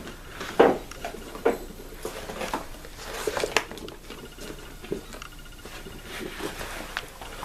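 Objects being rummaged through and handled, with scattered knocks, clicks and rustles.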